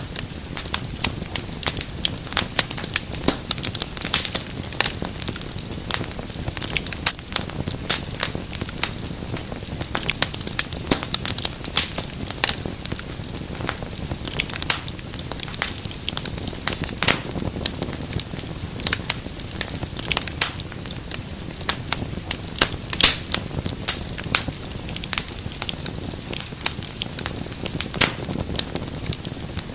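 Wood fire crackling: a dense, irregular stream of sharp pops and snaps over a soft low rumble of burning.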